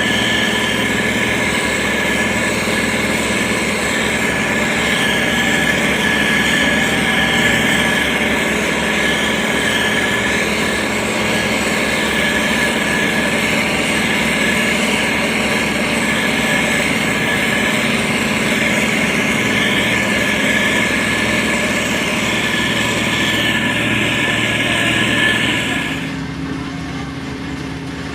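Diesel engine of a heavy road-construction machine running steadily, with a constant whine over its drone. About two seconds before the end the sound abruptly turns quieter and duller.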